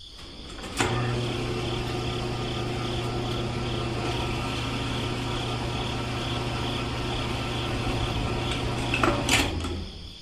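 A small motor switches on with a click and runs steadily with a low hum and a faint, regular ticking about twice a second. Near the end it stops with a brief clatter.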